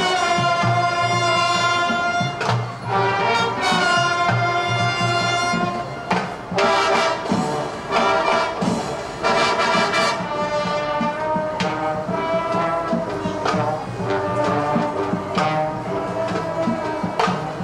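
Elementary school marching band playing, with brass holding long chords over drum strikes.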